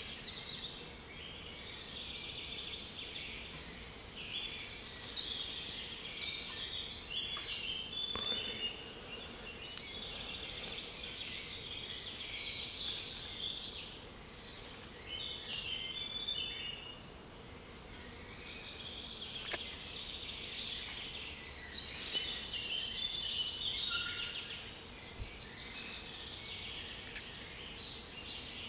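Mixed chorus of songbirds, several singing at once in overlapping phrases, trills and chirps.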